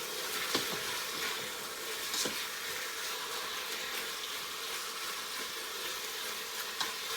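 Sliced chicken breast sizzling steadily in hot canola oil as it browns in a crock pot on its high brown/sauté setting. A few light clicks are heard.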